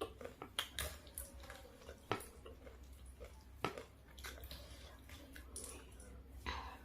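Close-miked mukbang chewing of crispy fried chicken, with wet chewing between a few sharp crunches.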